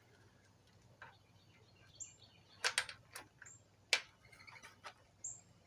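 A northern cardinal's sharp, high chip notes repeat about every one and a half seconds, three in all. A few sharp clicks fall among them, the loudest about four seconds in.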